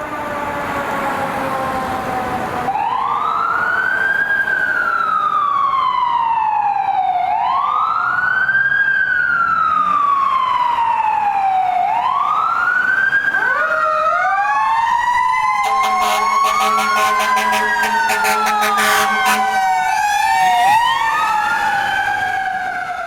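Fire truck sirens on wail: each cycle rises quickly and falls slowly over four to five seconds. It opens with a pitch winding down. A second siren joins about halfway through, and a steady low horn blast sounds for several seconds in the middle.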